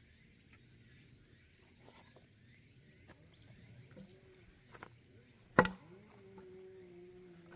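Firewood being chopped: one loud sharp chop about five and a half seconds in, after a few faint clicks. A steady low hum starts just after the chop.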